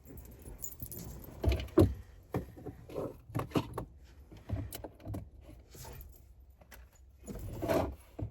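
Loose coins clinking and jingling as they are handled, in irregular clinks, loudest about a second and a half in and again near the end.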